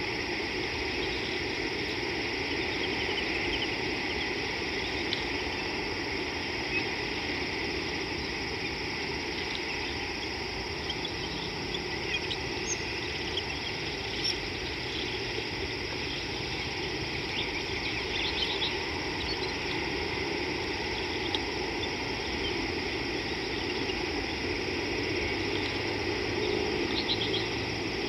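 Steady outdoor hiss by a river, with short high bird chirps here and there.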